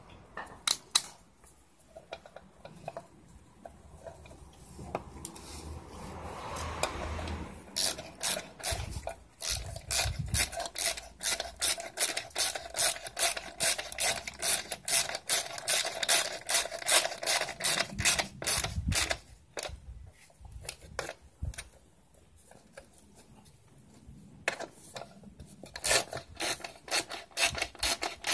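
A hand tool worked on metal in quick, even, rasping strokes, about four a second, in two long runs with a pause between them, after a few seconds of light handling noise.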